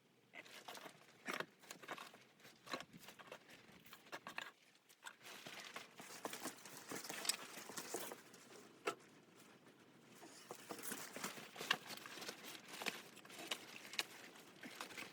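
Close-up handling noises: irregular rustling, crinkling and light ticks and knocks, starting just after the beginning and continuing throughout.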